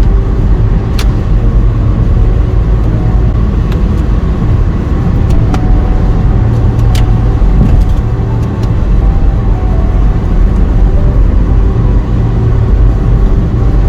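Car driving along a road, heard from inside the cabin: a steady low rumble of road and engine noise, with a few faint clicks.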